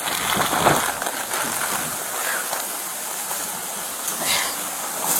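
Steady rain noise, an even hiss with a few brief louder rustles on the body-worn microphone.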